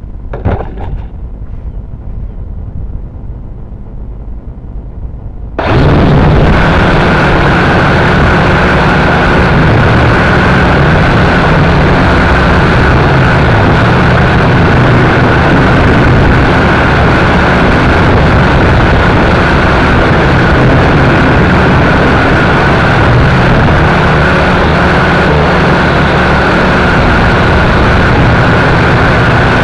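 WLtoys V959 quadcopter's motors and propellers spin up suddenly about six seconds in, then run steadily with a high whine and loud wind noise. Before that there is only a low rumble of wind.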